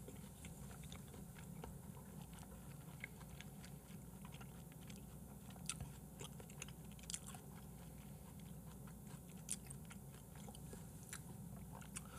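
Quiet chewing of a mouthful of food, with scattered small mouth clicks over a low room hum.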